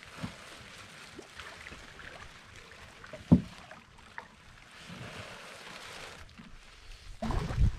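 Canoe being paddled: soft water swishing from the paddle strokes, with a sharp knock about three seconds in and a low rumble building near the end.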